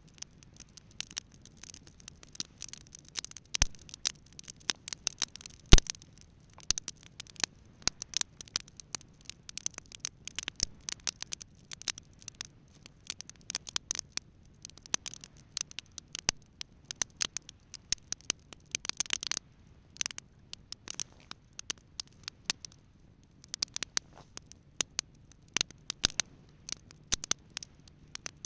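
Wood campfire crackling, with irregular sharp pops and snaps. The loudest pop comes about six seconds in, and there is a quick flurry of pops near two-thirds of the way through.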